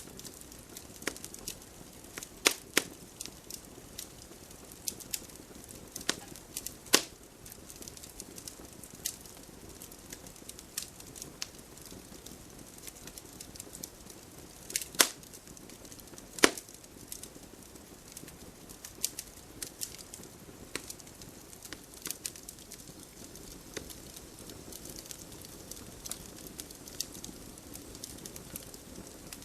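Wood fire crackling in a fireplace: a low steady hiss broken by scattered sharp pops and snaps, a few of them loud.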